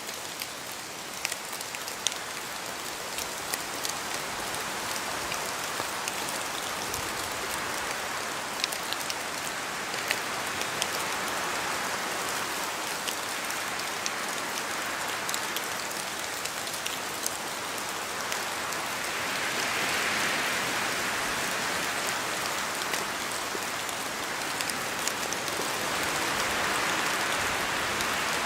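Steady rain in a forest, with scattered sharp taps of drops falling from the trees. Gusts of wind swell through the trees a few times, strongest about two-thirds of the way through and again near the end.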